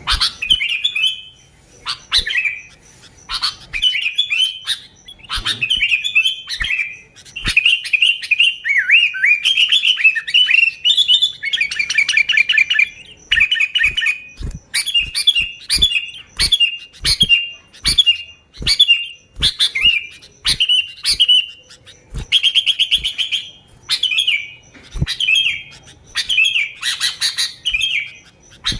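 Sooty-headed bulbul calling: short, bubbly chirping phrases repeated about once a second, with a couple of quick rattling trills, broken by sharp clicks between phrases.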